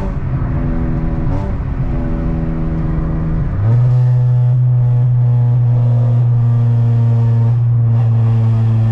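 2004 Honda Civic coupe's four-cylinder engine droning at highway speed, heard from inside the car. About three and a half seconds in, the drone steps up in pitch and gets louder as the car accelerates, then holds steady.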